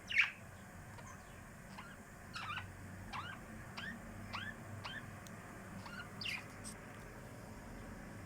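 Small pet birds chirping: a sharp call right at the start, then a run of short, rising chirps repeated about twice a second.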